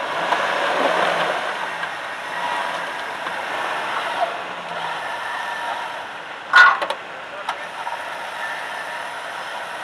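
Vehicle engine running at low speed with a steady hum, and a sharp loud clack about six and a half seconds in, followed by a lighter click.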